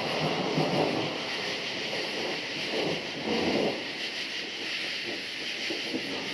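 A steady chorus of crickets chirping, with thunder rumbling over it. The thunder swells twice, in the first second and again about three seconds in.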